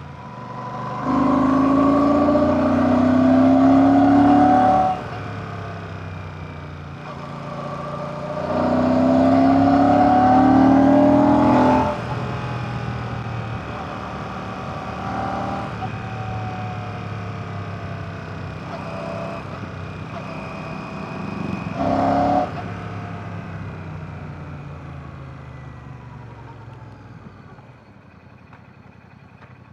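Royal Enfield Classic 650's 648cc air/oil-cooled parallel-twin engine accelerating hard twice, the revs climbing and then cutting off sharply each time at a gear change. It then runs on part throttle, with a short burst of throttle about twenty-two seconds in, before easing off and dropping away.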